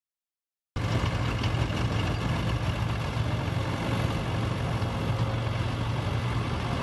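An engine running steadily with a low, even hum, cutting in abruptly from dead silence about three quarters of a second in.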